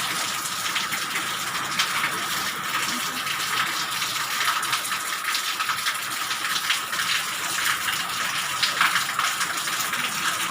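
Heavy rain falling steadily: a dense hiss of water with many sharp individual drop impacts.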